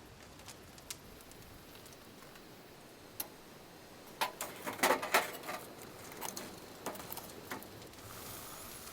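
Scattered light clicks, then a quick run of clattering knocks about four seconds in, like small hard objects being handled, and a faint steady hiss near the end.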